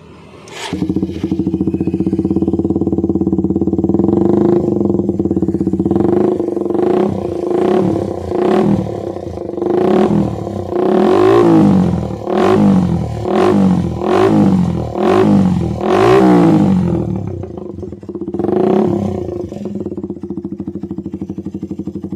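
Suzuki Satria FU 150 single-cylinder four-stroke engine breathing through an aftermarket Mafia Treoval 25 cm racing exhaust: it starts about a second in, idles, then is blipped about a dozen times in quick succession, each rev rising and falling, before settling back to idle with one more blip near the end.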